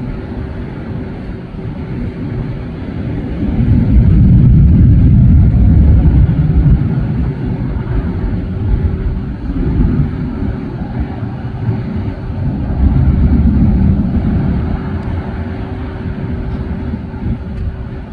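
Airliner jet engines giving a deep, steady rumble with a faint steady hum above it. It grows loud about four seconds in, eases off, and swells again around thirteen seconds.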